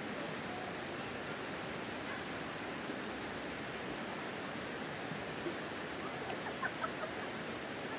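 Campfire burning in a fire stand: a steady hiss of burning wood with a few faint crackles. A few short, faint high-pitched chirps sound near the end.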